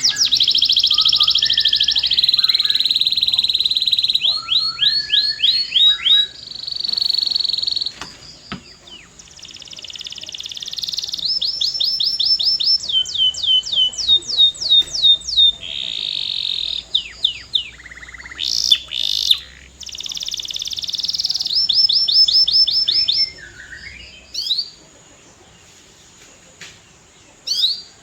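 Canary singing: fast, high trills and runs of repeated notes, many of them quick falling sweeps, broken by short pauses, with a quieter gap a few seconds before the end.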